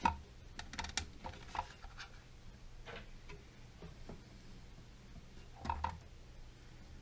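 Scattered light clicks and taps of hands handling a new toilet supply hose and its plastic fittings, with a louder knock near the end.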